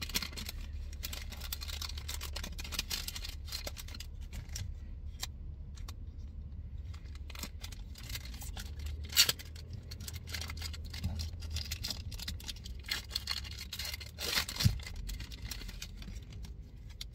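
Pokémon booster packs and cards being handled: foil wrappers crinkling and cards rustling and sliding against each other, with two sharp snaps, about nine seconds in and again near the end. A steady low hum runs underneath.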